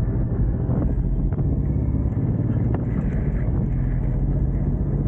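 Suzuki M109R's V-twin engine running steadily at low revs, a dense low rumbling pulse.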